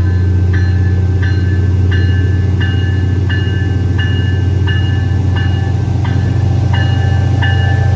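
MBTA commuter train with a steady low diesel rumble, its bell ringing about once every 0.7 seconds.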